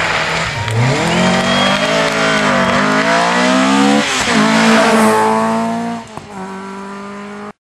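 Rally car engine revving hard, its pitch climbing and dropping several times as it is driven through the gears. About six seconds in it falls to a quieter, steady lower note, then the sound cuts off suddenly.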